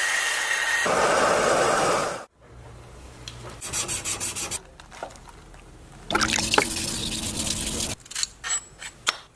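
Metal being worked by hand on a blade: loud scraping, rasping strokes in a few short stretches, with quieter ticks and clicks between them.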